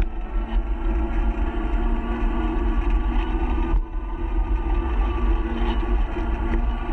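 Wind rumbling on the microphone of a moving e-bike, with a steady hum of several held tones over it and a brief drop about four seconds in.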